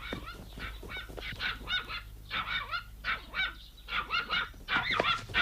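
A rapid series of short, honking animal cries from a cartoon soundtrack, repeated many times and getting louder towards the end.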